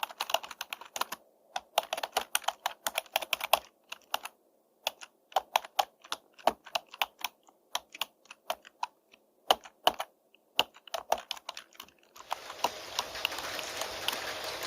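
Computer keyboard typing, runs of quick key clicks broken by short pauses. About twelve seconds in, a steady hiss of rain comes in.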